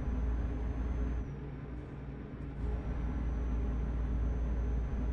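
Truck engine and road noise heard inside the cab while driving: a steady low rumble that eases off briefly about a second in, then builds again.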